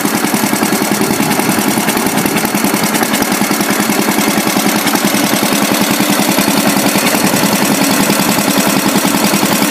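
Antique hit-and-miss engine running steadily, belted to a jaw rock crusher, with a fast, even mechanical beat.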